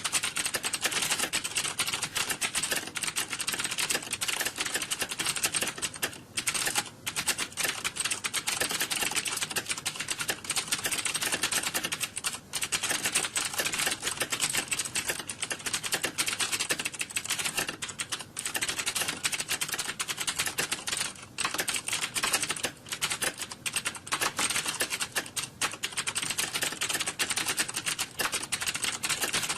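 Computer keyboards being typed on fast and without a break, the clatter of several typists at once, like a room of candidates in a typing exam. The clicks run densely together with only a few short lulls.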